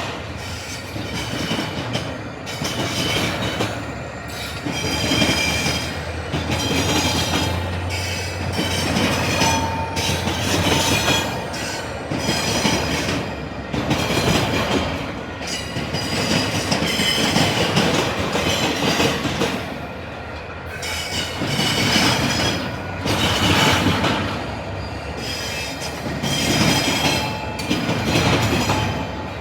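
Freight cars of an intermodal train rolling past, their wheels clanking repeatedly over a rail diamond crossing while the wheel flanges squeal. A low steady hum runs under it for the first ten seconds or so.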